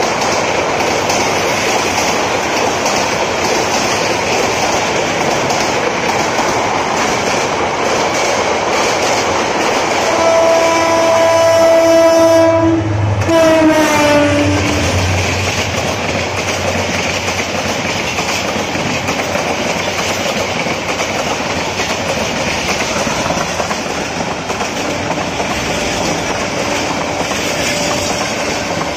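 Metre-gauge express passenger train rushing past at speed, its coaches giving a steady clatter of wheels over the rails. About ten seconds in the locomotive horn sounds for about two seconds, then after a brief break a second blast that falls in pitch as it goes by; a fainter horn is heard near the end.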